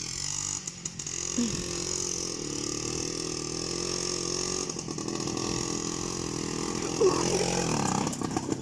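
IZh Planeta motorcycle's single-cylinder two-stroke engine running steadily under way. Its pitch rises briefly about a second and a half in.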